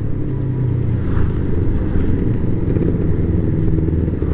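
Motorcycle engine running at a fairly steady speed while riding, a low, even engine note with small rises and falls in pitch.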